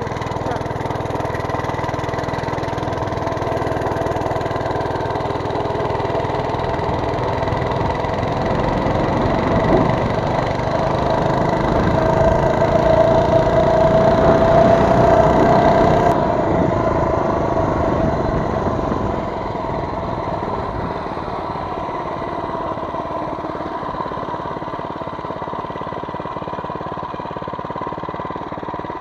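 Mini bike's small engine running under way. It speeds up and grows louder toward the middle, then drops off suddenly and settles to a lower, steadier run.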